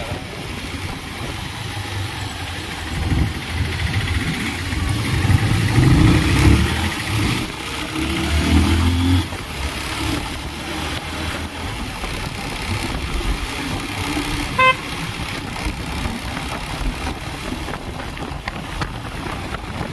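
Road traffic noise heard from a moving two-wheeler, with engine noise swelling for several seconds as vehicles pass. About 15 seconds in, a vehicle horn gives one short beep.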